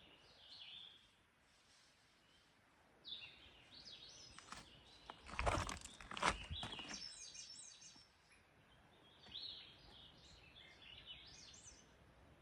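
Faint rustling and scratching in dry dead leaves, loudest about five to seven seconds in, which he first takes for a bear and then for small birds scratching up the leaves. Short high bird chirps are scattered around it.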